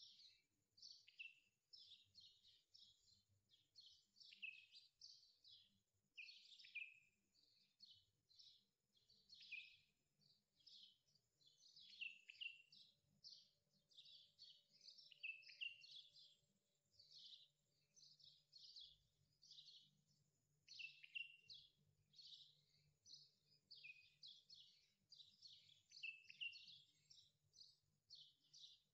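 Faint bird chirping: a steady run of short, high chirps that each slur downward, about two a second.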